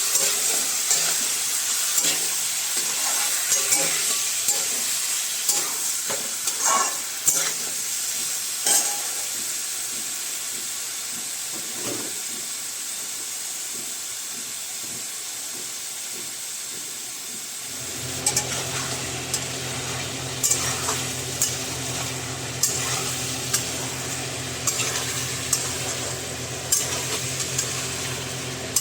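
Chicken curry frying and sizzling in a pan while a spoon stirs and scrapes, knocking against the pan now and then. About 18 s in, a steady low hum starts under the sizzle.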